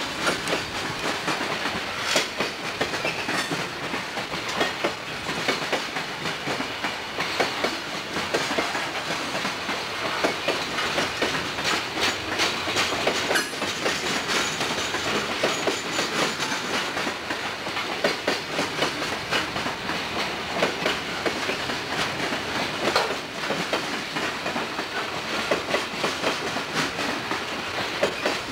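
A passing freight train's boxcars and covered hopper cars rolling by: a steady rolling rumble of steel wheels on rail, with frequent sharp clicks as the wheels run over the track.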